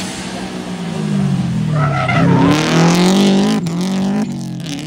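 Rally car engine revving hard, its pitch dropping and then climbing again, with tyres skidding and squealing. The sound swells loudest in the middle and cuts off sharply near the end.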